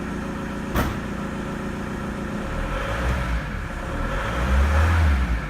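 Ford Galaxy's 1.9 TDI AHU four-cylinder turbodiesel running, with a sharp click about a second in. In the second half it is revved up and let back down twice.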